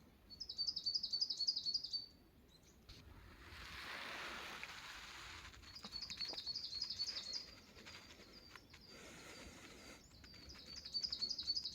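A wild songbird singing a quick trill of repeated high notes in three phrases of about a second and a half each: one near the start, one in the middle, one near the end. A soft rushing hiss rises and fades between the first two phrases.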